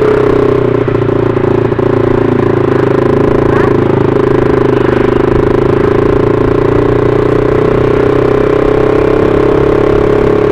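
Motorcycle engine running at a steady, even speed while riding, heard from the rider's own bike.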